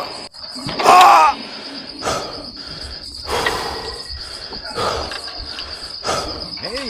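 Steady cricket chirping, pulsing a few times a second. A brief louder pitched sound with gliding tones comes about a second in.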